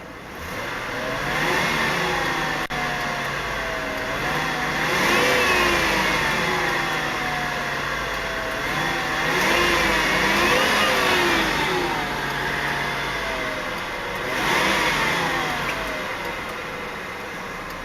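2000 Lincoln Town Car limousine's 4.6-litre V8 revved from idle about four times, the engine note rising and then falling back each time.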